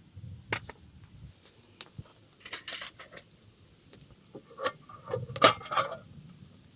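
Metal camp cookware being handled: scattered light clicks and knocks, a short rustle, then a cluster of metallic clinks with a brief ring about five seconds in.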